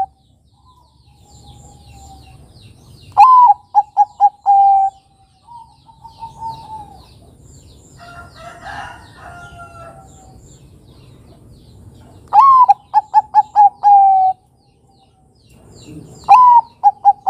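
Male zebra dove (perkutut, Bangkok type) cooing its song. Each phrase opens with a rising note, runs into a quick series of short staccato coos and ends on a longer held coo. Three phrases sound, the last cut off at the end, with softer cooing and faint high chirps of other birds between them.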